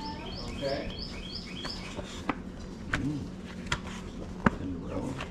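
A songbird singing a quick phrase of a few descending notes, repeated about five times in the first second and a half, over faint distant talk. Several sharp knocks or clicks come later, each brief, and they are the loudest sounds.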